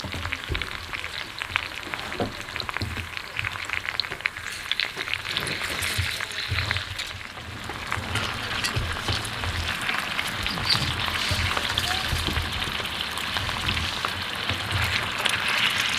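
Gambas frying in olive oil in a pan: a steady sizzle full of small crackles and pops, growing louder about halfway through.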